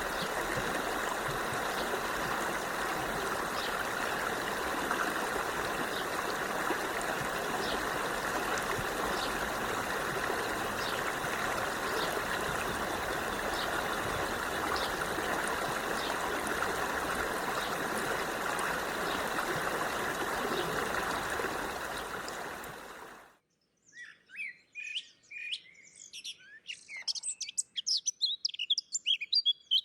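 A stream running steadily, with occasional faint bird chirps over it, fades out about three-quarters of the way through. Birds then chirp rapidly and busily against a quiet background.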